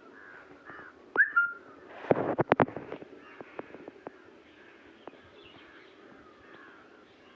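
Birds calling: a short whistled note about a second in, rising sharply and then held, over faint chirping, with a burst of rustling and a few sharp clicks just after it.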